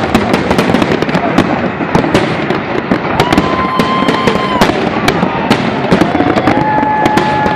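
Large fireworks display: a dense run of bangs and crackles from bursting shells, with long steady whistles sounding over them about three seconds in and again from about six seconds in.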